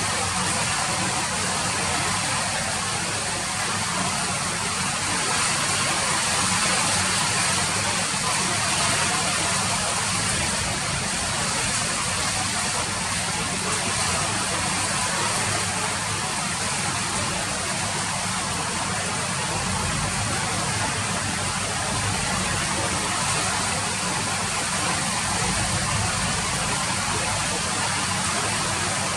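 Steady rain falling, an even hiss with a low rumble beneath it and no breaks.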